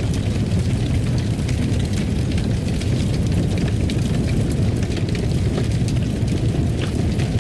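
Fireplace fire burning: a steady low rumble with faint scattered crackles.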